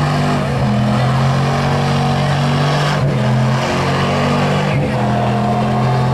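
Pulling vehicle's engine under load at a truck and tractor pull, a steady drone that is quiet for a puller, its pitch shifting briefly about half a second in, at three seconds and again near five seconds.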